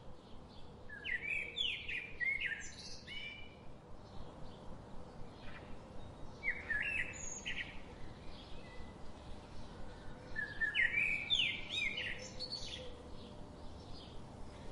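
Birds chirping: a steady scatter of short, high tweets, with three louder bursts of quick rising and falling notes about four to five seconds apart.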